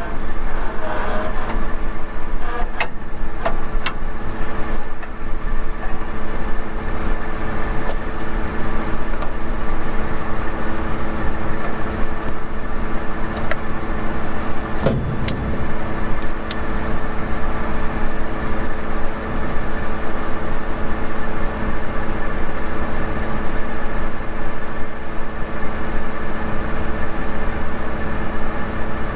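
A vehicle engine running steadily at constant speed, with a steady whine over the engine note and a few faint clicks.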